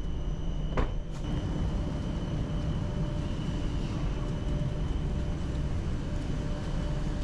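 Steady low rumble of a ferry's machinery on the vehicle deck, with faint steady hum tones and a single sharp knock about a second in.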